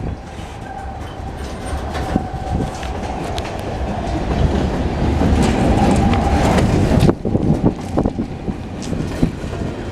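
Freight train of double-stack container cars rolling past, its wheels clacking over rail joints, with a thin steady wheel squeal through much of it. The noise builds, then drops suddenly about seven seconds in.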